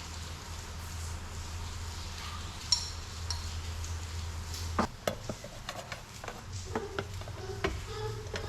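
Metal kitchen utensils clinking and tapping against pans and dishes during cooking: a single ringing clink, then a run of short knocks and clinks in the second half. A steady low hum underneath stops about halfway.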